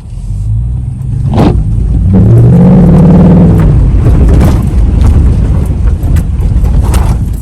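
Motor vehicle running and picking up speed, a heavy low rumble with the engine note rising about two seconds in, and a few knocks.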